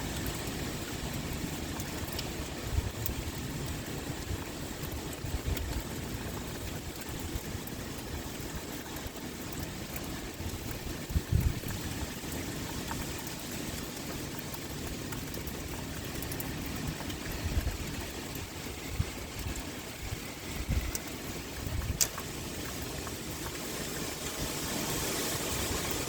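Heavy rain pouring steadily with wind, an even hiss. It is broken several times by brief low thumps and once by a sharp click.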